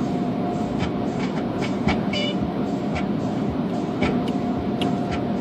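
Automatic conveyor car wash heard from inside the car: a steady rumble of machinery and water with repeated knocks and clicks as the car is pulled through in neutral, and a short squeak about two seconds in.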